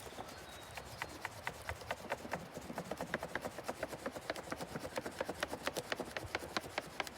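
Wax crayon rubbed quickly back and forth over paper pressed against rough tree bark, making a scratchy rhythm of several strokes a second.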